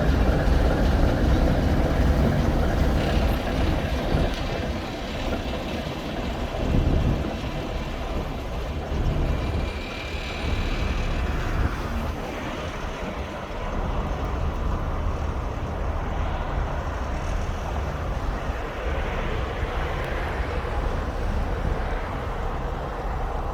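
ChME3 diesel shunting locomotive running with its freight train, a heavy low rumble that is loudest in the first few seconds and then holds steady.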